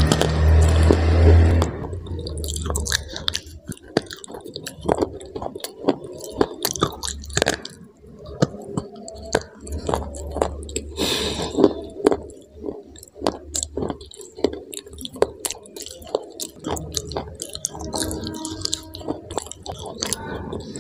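Close-up crunching and chewing of a hard, dry stick, bitten and ground between the teeth in many sharp, crisp cracks. A loud low rumble runs under the first second and a half.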